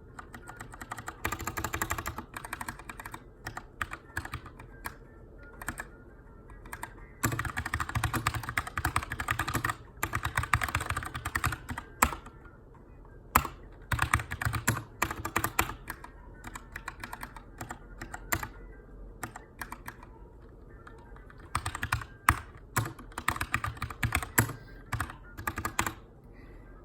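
Typing on a Keychron K2 aluminium-frame mechanical keyboard with brown (tactile) switches: fast runs of key clicks broken by short pauses, with a few single louder key strikes in between.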